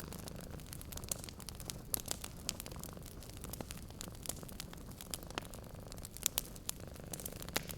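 Wood fire crackling in a fireplace: many sharp irregular pops and snaps over a steady low rumble.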